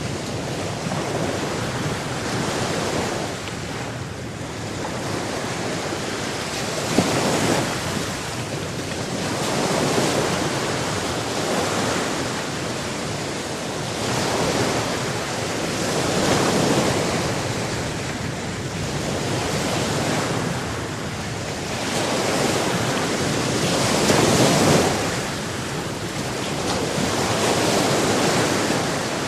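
Ocean surf: waves breaking and washing in, a rush of water that swells and ebbs every few seconds.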